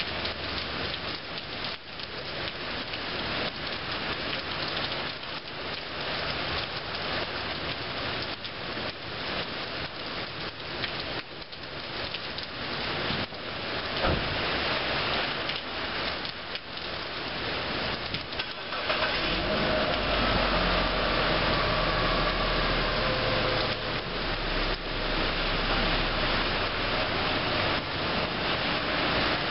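Rain pouring off the edge of a roof overhang: a dense, steady patter of falling and splashing drops. About two-thirds of the way through it grows louder and a low hum joins in.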